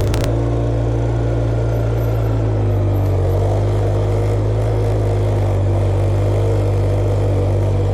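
Tractor engine running steadily at a constant speed, pulling an implement over a food plot to smooth the ridges.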